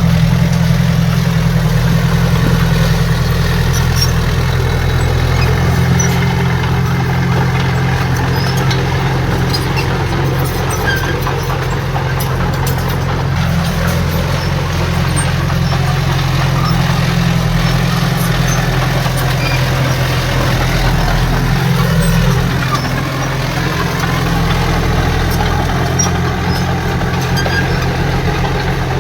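Heavy diesel engine of earthmoving machinery running at a steady speed, a deep, even sound with little change.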